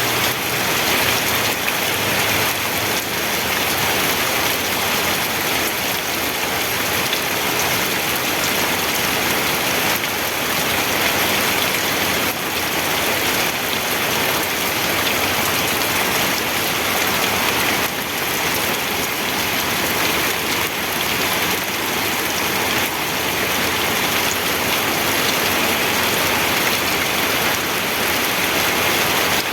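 Steady rain falling on a surface, an even patter with no thunder.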